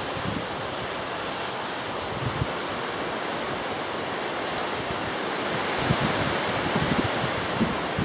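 Strong gusty wind rushing over the microphone, with low buffeting thumps that come more often in the second half.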